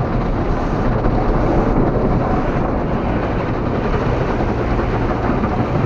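Steady engine and road noise of a vehicle being driven, with a low rumble and no sudden changes.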